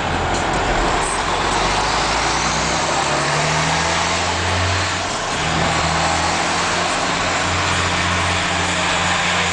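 Ford Cargo 4331 truck's Cummins diesel engine running loud through a straight-through exhaust. Its pitch climbs a few seconds in, breaks briefly about halfway, then holds steady.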